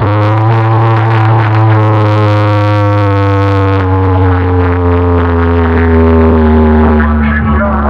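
A loud electronic drone blasted through a large DJ sound-box rig: a steady deep bass tone under a buzzy pitched tone that slides slowly downward, shifting near the end.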